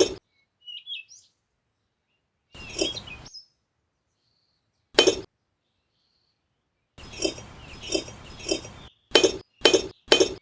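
Sharp clinks and taps of hard objects in short cut-up bursts, including a run of four evenly spaced strikes about two-thirds of the way through, with birds chirping faintly early on.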